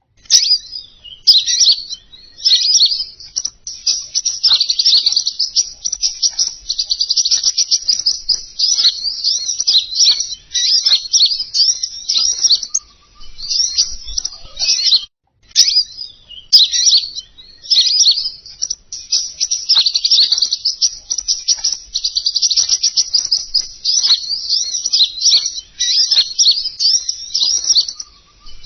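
Recorded song of the king konin songbird played as a bird-lure call: rapid, high chirps and trills in long, busy phrases separated by short pauses, with one brief break about halfway through.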